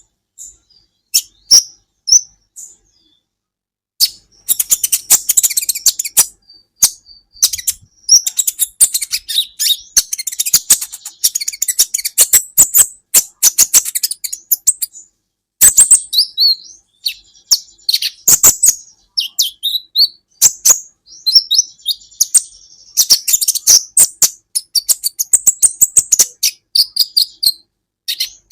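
Olive-backed sunbird (kolibri ninja) singing: rapid strings of sharp, high-pitched chirps and short trilled runs. The bursts come in quick succession after a brief pause early on.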